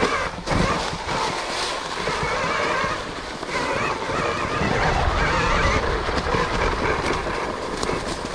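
Electric dirt bike ridden over rough woodland trail: a steady rush of wind and riding noise with low rumble and small knocks from the tyres and chassis, and no engine note.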